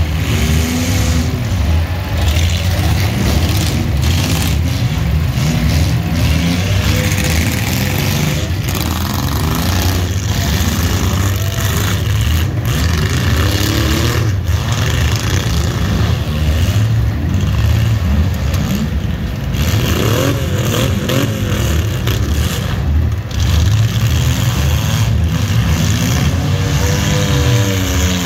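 Demolition derby compact cars' engines running and revving together, loud and continuous, the pitch rising and falling as the drivers rev. Several sharp bangs from cars hitting one another come through at intervals.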